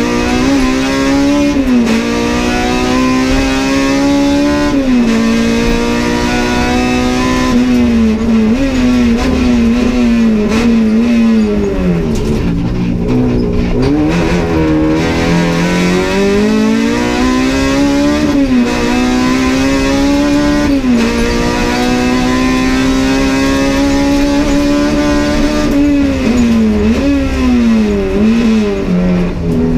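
Honda Civic race car's engine heard from inside the cabin, pulling hard with its pitch climbing and then dropping sharply at each gear change, with a lower, slower stretch near the middle where it eases off and picks up again.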